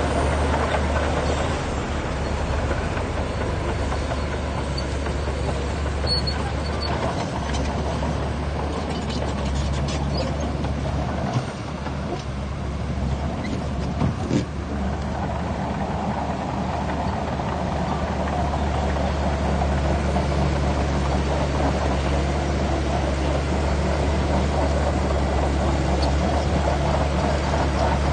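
Heavy bulldozer diesel engine running steadily, with a few knocks about halfway through, after which the engine noise grows fuller as it works under load.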